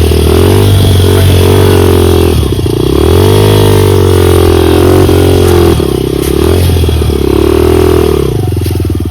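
Dirt bike engine being ridden, its note rising and falling repeatedly with the throttle and dropping off briefly a few times between bursts of revs.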